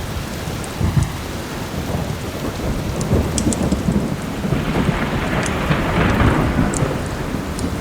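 Steady heavy rain with a long rolling thunder rumble that builds from about three seconds in and swells toward the end. A few sharp pops of a crackling log fire sound over it.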